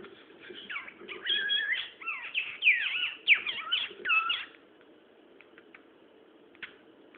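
Cockatiel chattering and warbling: a quick run of gliding chirps and whistles that lasts about four seconds and then stops.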